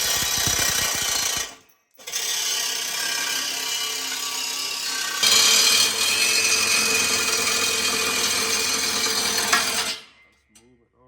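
A power tool running steadily in a few edited stretches. There is a short break a couple of seconds in and a jump in level about five seconds in, and it stops near the end.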